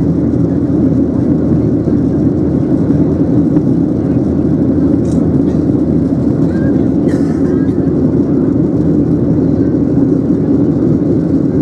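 Steady, loud cabin drone inside a Boeing 737-800 in flight: its CFM56-7B engines and the airflow past the fuselage, a deep, even noise that does not change.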